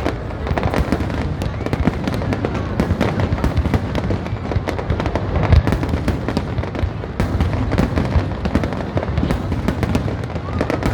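Fireworks going off in rapid, unbroken succession: dense crackling and popping over a continuous low rumble of bursts.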